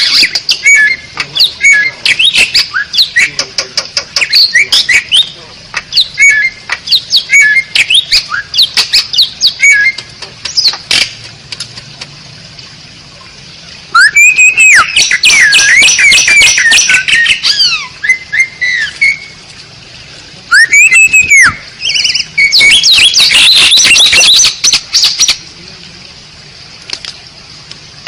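Asian pied starling (jalak suren) singing: a string of quick clicks and short whistles, then, about halfway through, loud runs of squawky, chattering phrases and a loud whistle that rises and falls.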